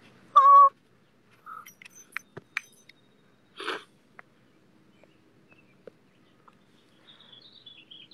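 A short, loud high-pitched tone about half a second in, then scattered faint clicks and a brief rushing burst; from about seven seconds a bird sings a quick run of high chirps.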